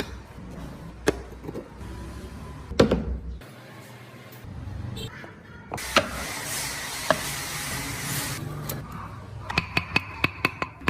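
Hand-working sounds on wood: scattered sharp knocks, a few seconds of hissing noise partway through, then a quick run of about eight taps near the end.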